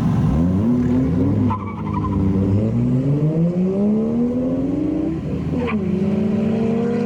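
Drift car's engine revving under hard acceleration: the revs climb, dip briefly about a second and a half in, climb again for about three and a half seconds, then drop and hold steady near the end.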